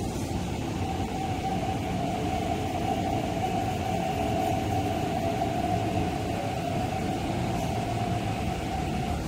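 MTR East Rail Line electric trains at the platform: a low rumble with a steady high-pitched whine held from about a second in, as a train pulls in on the next track.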